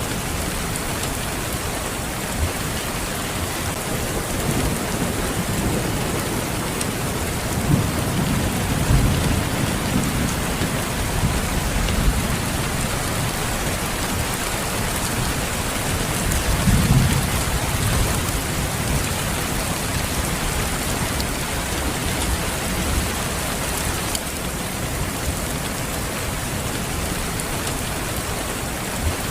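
Steady rain hissing, with low rolls of thunder rumbling in the background, swelling about a third of the way in and again a little past halfway.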